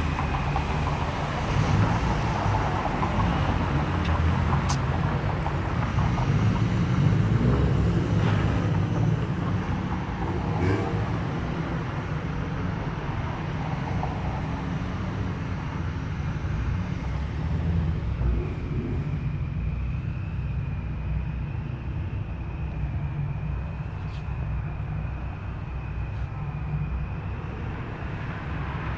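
Car engines running with a deep, steady rumble, a little louder about a quarter of the way in; a faint steady high tone joins in the second half.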